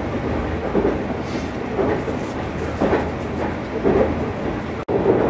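Meitetsu 1200-series Panorama Super electric train running along the line, heard from inside its front observation seating: a steady rumble of wheels on rail with a clatter over the rail joints about once a second. The sound cuts off abruptly near the end.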